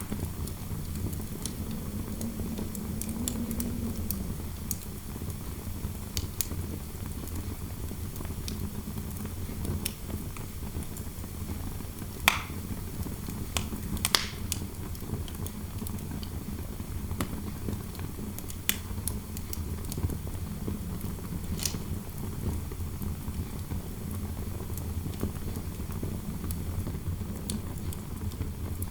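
Fireplace fire crackling, with scattered sharp pops over a steady low rumble of interior wind noise.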